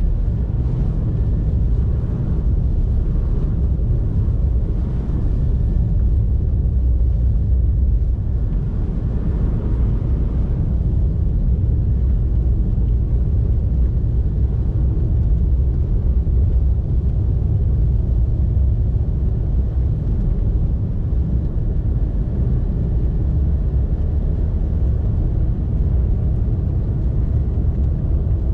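Steady low rumble of a car driving on snowy roads: engine and tyre noise, with a few faint hissing swells in the first ten seconds.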